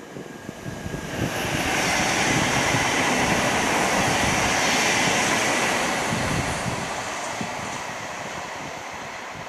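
A passenger train passing by: a rush of wheels and air that builds about a second in, is loudest for several seconds, then fades away.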